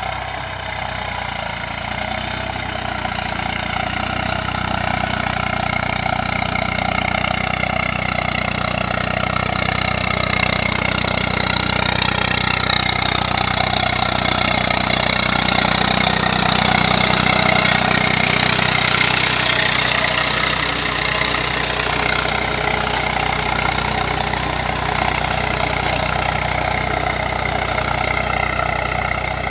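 Eicher 380 tractor's diesel engine running steadily while pulling a cultivator through soil, getting a little louder around the middle and easing off slightly again.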